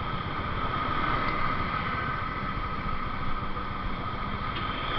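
Motorcycle engine running steadily while riding, a continuous even rumble with no change in pitch.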